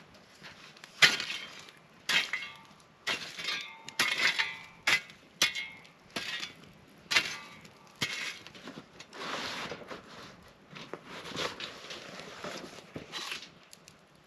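Camp cookware and utensils clinking and knocking together: a dozen or so sharp, irregular knocks, some with a short metallic ring.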